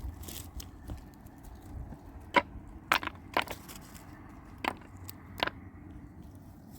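Several sharp, irregular knocks or taps, about six over a few seconds, over a steady low background noise.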